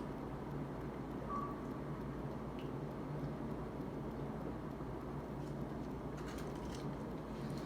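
Steady low background hum, with a few faint clicks near the end.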